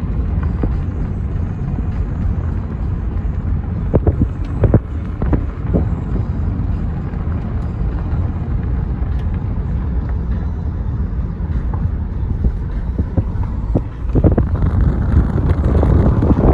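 Car driving along a road: a steady low rumble of tyres and engine, with a few sharp knocks about four to five seconds in. Near the end a louder rushing noise sets in, like wind on the microphone.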